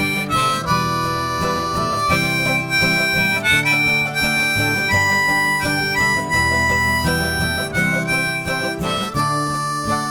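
Instrumental break of a folk-style song: a harmonica plays a lead melody of held notes over guitar accompaniment.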